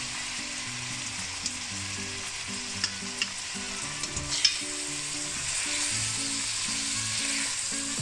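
Mince and tomato paste sizzling in a stainless steel pot as sliced mushrooms are tipped in from a metal colander and stirred in with a slotted spatula. A few sharp knocks of the utensils against the pot come between about one and a half and four and a half seconds in, the loudest near the end of that run.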